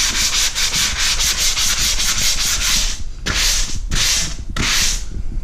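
Hand sanding of dried drywall joint compound in an inside corner with a 3M angled corner sander: quick back-and-forth scratching strokes, about six a second, then three slower, longer strokes near the end. The sanding is taking down the ridges left by the corner trowel.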